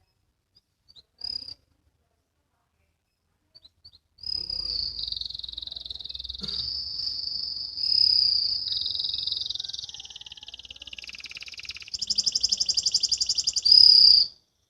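Canary singing: a few brief chirps, then from about four seconds in a continuous warbling song that changes phrase every second or two. It ends in a fast trill and one loud final note, then cuts off.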